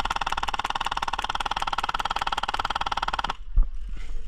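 Airsoft gun firing one long full-auto burst at a rapid, even rate, stopping suddenly a little over three seconds in.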